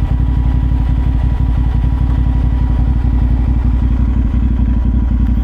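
CFMoto 450SR's parallel-twin engine running at steady revs, with an even low pulse.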